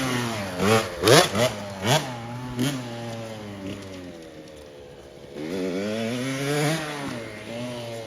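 Small kids' dirt bike engine revving up and down: several quick rev blips in the first three seconds, a lower steady stretch, then a rise in revs about five and a half seconds in that drops away near seven seconds.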